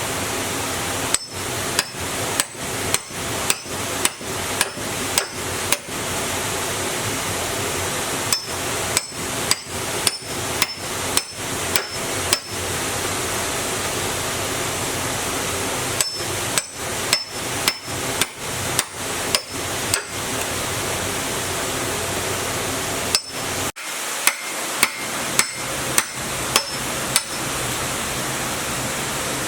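Hammer blows on metal, about three a second, in four runs of a dozen or so strikes with short pauses between them. Each blow leaves a short metallic ring, over a steady hiss.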